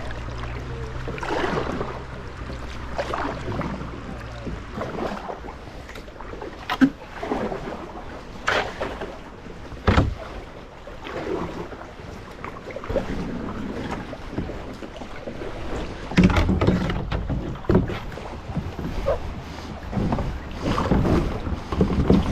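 Canoe being paddled on a river: paddle strokes splashing in the water, with several sharp knocks. Wind rumbles on the microphone in the first few seconds.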